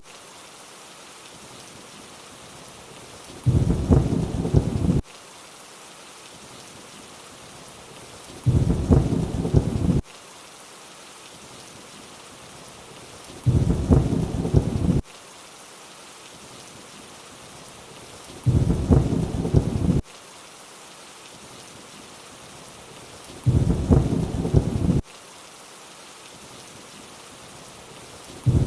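Steady rainfall hiss with a low thunder rumble. The rumble repeats every five seconds, and each one lasts about a second and a half and cuts off abruptly, as a looped sound-effect track does.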